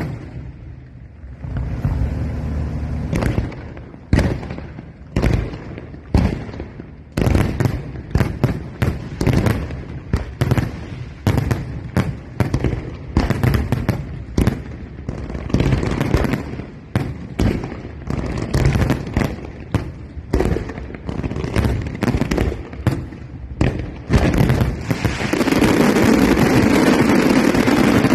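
Fireworks going off: a steady run of sharp bangs and booms in quick succession, growing denser, and in the last few seconds merging into a continuous loud din.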